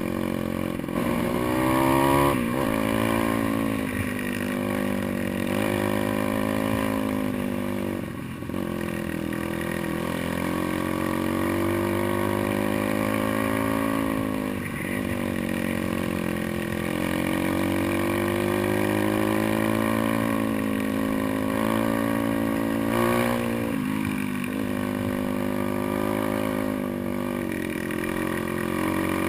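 Pit bike engine running hard, its revs rising and falling continuously, with a sudden drop in revs four times before it pulls up again.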